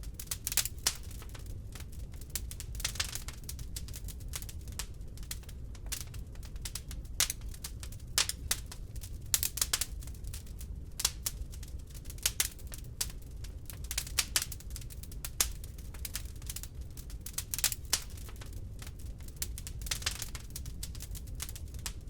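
Wood fire crackling in a fireplace, with irregular sharp pops and snaps, a few louder than the rest, over a low steady rumble.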